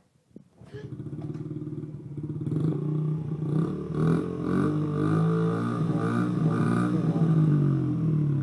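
Motorcycle engine starting about half a second in, then running and being revved up and down several times.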